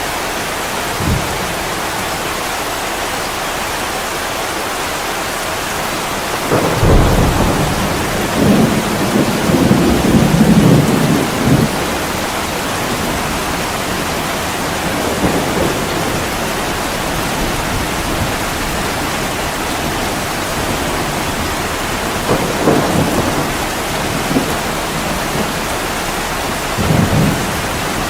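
Heavy rain falling steadily on a window, with a low roll of thunder that swells and fades over several seconds about a quarter of the way in, and two shorter, fainter rumbles later.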